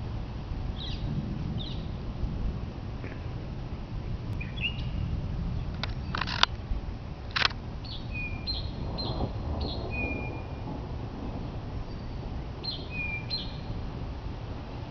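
Birds chirping, short scattered calls over a steady low rumble outdoors before a thunderstorm. A few short, sharp clicks stand out about six and seven and a half seconds in.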